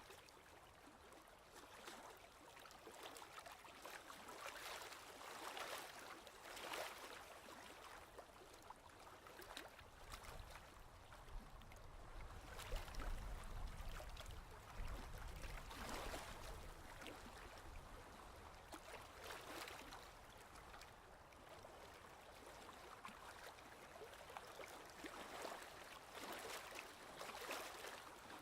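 Ocean waves washing in, faint, each swell of noise rising and falling every few seconds, with a low rumble under them around the middle.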